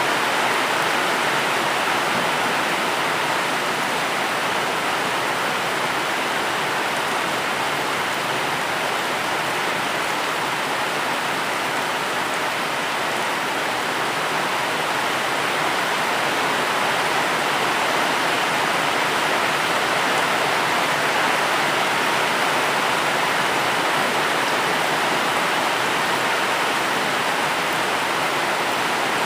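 Steady, even rain noise, a continuous hiss with no separate drops standing out.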